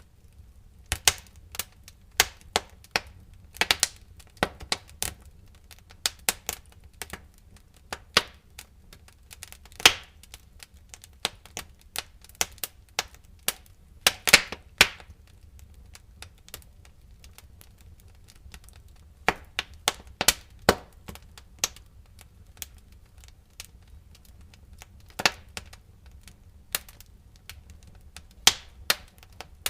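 Wood fire in a fireplace crackling: irregular sharp pops and snaps, a few louder ones around the middle, over a faint low rumble.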